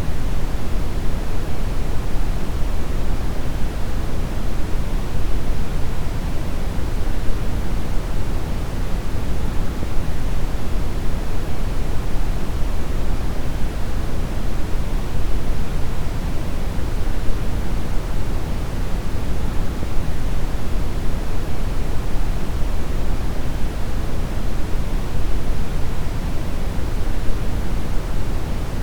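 Steady deep brown noise: an even, unbroken rumbling hiss, strongest in the bass and thinning out towards the highs.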